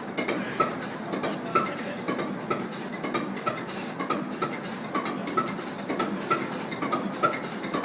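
Large Duvant 9VOS diesel engine running at a slow, steady speed, with a rhythmic mechanical clatter and a stronger knock about once a second.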